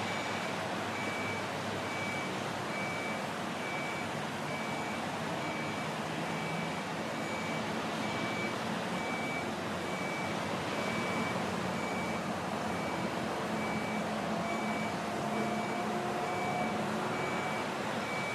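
A vehicle's reversing alarm beeping at a steady single pitch, about two beeps a second, over a steady rushing noise of wind and distant engines.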